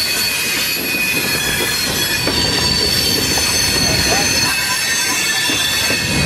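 Freight train on the Essex Terminal Railway interchange job rolling slowly, its steel wheels squealing against the rails with several steady high-pitched squeals over a low rumble of the cars.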